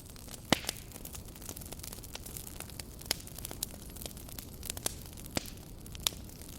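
Campfire burning, with a low steady rumble and sharp, irregular pops and crackles of burning wood; the loudest pop comes about half a second in.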